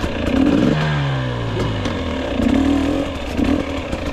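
2022 GasGas EX 250 fuel-injected two-stroke dirt bike engine revving and backing off while being ridden along a woods trail. The pitch drops about a second in, then climbs and falls again, with scattered clicks and knocks over it.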